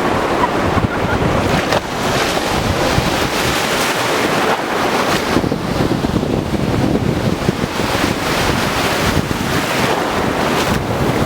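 Sea waves surging and breaking on the shore, with wind buffeting the microphone.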